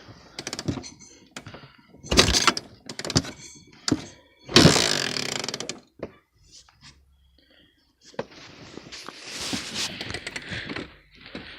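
Cold, flooded Honda FourTrax ATV single-cylinder engine being kicked over several times, catching briefly about four and a half seconds in and dying again, then turning over once more without starting. The engine does not like cold starts.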